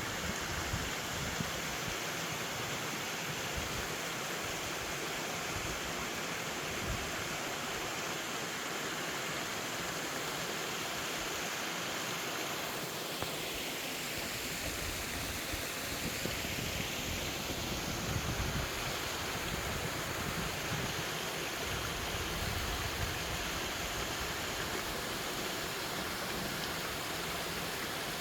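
Mountain valley stream rushing steadily over rocks: an even, continuous water noise.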